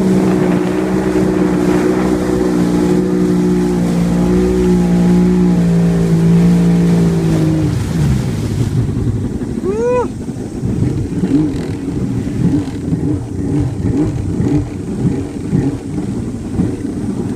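Jet ski engine running at a steady speed, then throttled back about eight seconds in to a lower, uneven idle.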